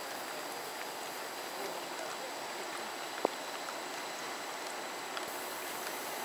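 Steady hiss of rain falling, with one sharp click about three seconds in.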